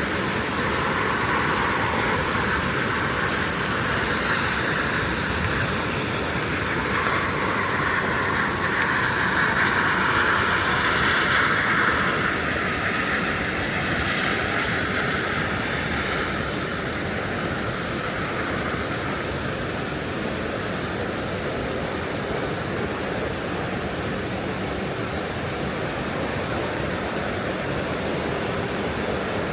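Steady rushing water, with a broader rushing swell that builds to about ten seconds in and fades away by about sixteen seconds.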